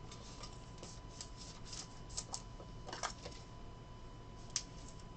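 Trading cards being handled and flipped through, faint rustling with a few light, sharp ticks.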